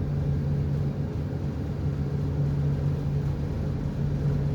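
Marine diesel engine running steadily, a constant low hum heard from aboard the boat.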